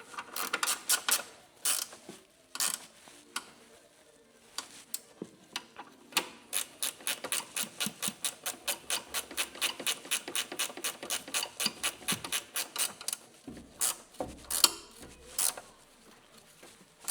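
Hand ratchet wrench clicking while tightening a fastener on a coilover during reassembly: a few separate clicks, then a fast even run of about six clicks a second for about seven seconds, then a few more single clicks.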